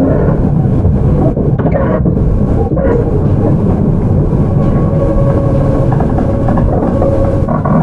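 Onboard running sound of a JR 211 series electric train, recorded in motor car MoHa 210-3027: steady rumble of wheels on rails and the car's MT61 DC traction motors turning.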